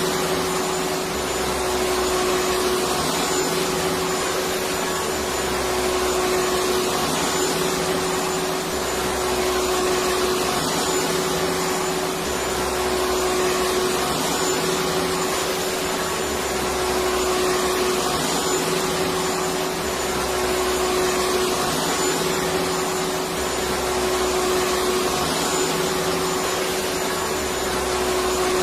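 Electric vacuum cleaner running steadily, a dense whooshing noise with a constant motor hum and a faint high whine, swelling and easing slightly every couple of seconds.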